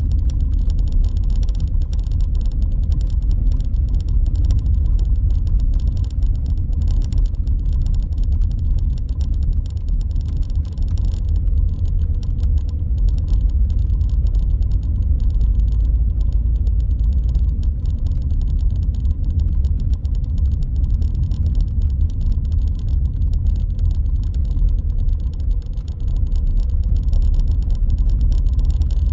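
A car being driven at steady speed: a continuous low rumble of engine and road noise, with no sudden changes.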